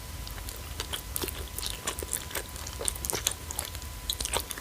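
Close-up chewing of a small whole squid snack, somewhat hard, with irregular crisp crunching clicks.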